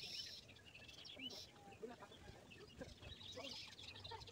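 Faint chirping of small birds, short high calls scattered irregularly.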